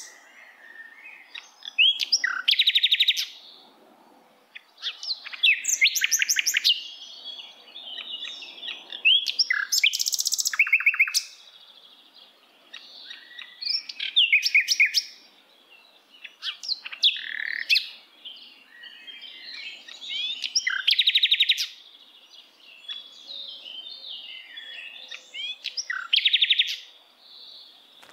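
Small songbird singing: loud phrases of quick trilled notes and sharp chirps, a new phrase every few seconds.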